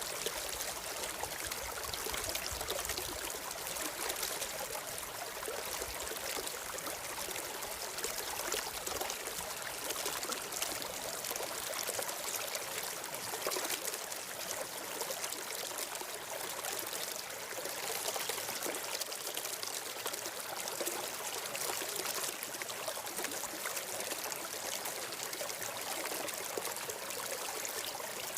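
Stream water flowing and trickling: a steady, even rushing.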